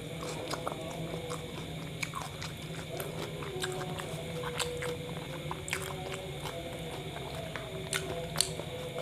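A person chewing a mouthful of kebab wrap with yogurt, close to the microphone, with irregular sharp mouth clicks throughout.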